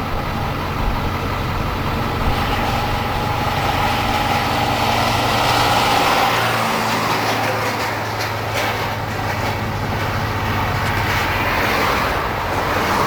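Vehicle engine running steadily with a low hum, under a continuous rushing noise.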